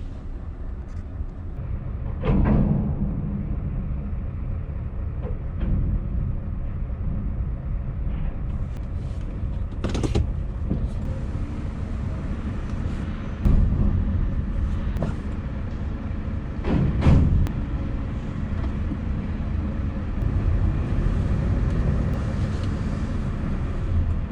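Heavy diesel truck engine idling with a low steady rumble, broken by a few loud clunks and knocks spread through.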